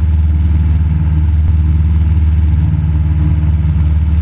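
Cessna 172 Skyhawk's piston engine and propeller droning steadily inside the cabin in level flight, a deep even hum with no change in pitch.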